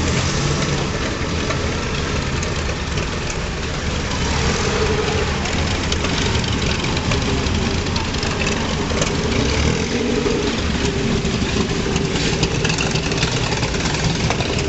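Engines of vintage and classic racing cars idling and driving slowly past one after another, with spectators talking in the background.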